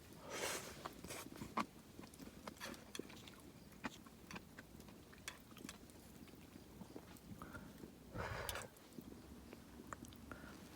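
A person eating close to the microphone: chewing with small crunches and scattered clicks, and a short breathy sound about half a second in and again near the end.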